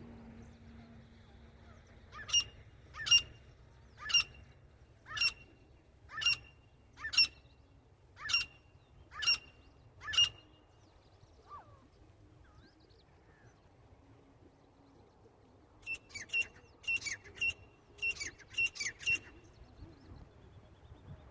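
Grey francolin (titar) calling: a run of about nine loud, sharp calls roughly one a second, then after a pause a quicker burst of about ten calls in close succession.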